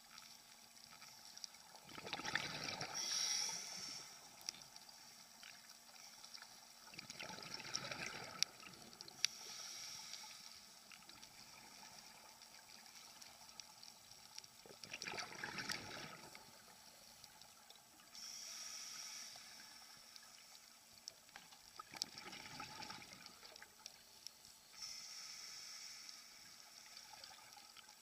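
Scuba diver breathing through a regulator underwater: about four gurgling bursts of exhaled bubbles, with a higher hiss of inhalation between them.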